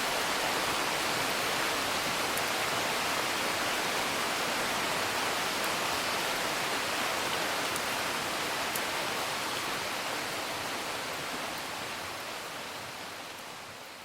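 Steady rain with a few faint crackles of a wood fire, fading out towards the end.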